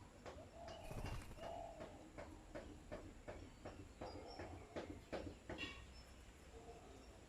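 Birds pecking at rice: a quick, irregular run of light taps, mixed with a few short calls and chirps.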